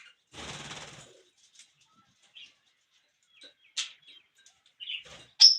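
Parrots flapping their wings for about a second near the start, then giving several short chirps and squawks, the loudest near the end.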